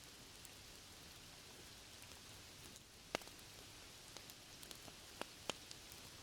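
Faint, steady rain ambience with a few scattered sharp pops from a crackling fireplace, the loudest about three seconds in.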